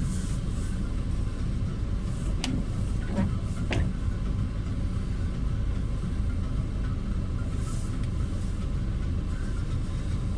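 Car driving, a steady low rumble of engine and road noise, with two short falling whistle-like sounds about two and a half and four seconds in.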